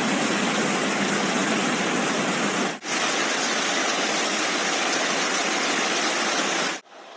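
Rushing floodwater: a loud, steady rush of water that breaks off briefly about three seconds in, resumes, and stops abruptly near the end, leaving a much quieter background.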